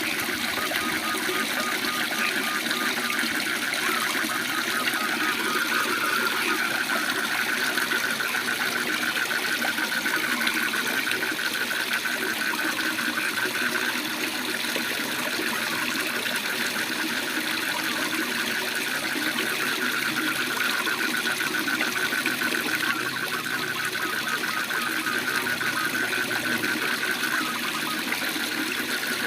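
Waterfall rushing steadily under a chorus of frogs giving fast, evenly pulsed trills at one high pitch, with a second, lower trill in the first few seconds.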